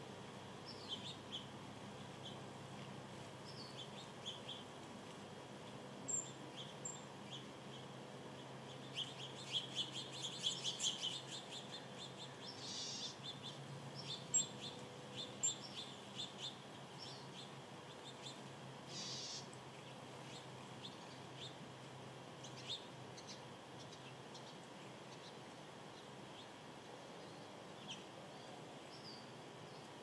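Small birds chirping: short high chirps and chip notes scattered throughout, thickest between about nine and sixteen seconds in, over a faint steady background hiss.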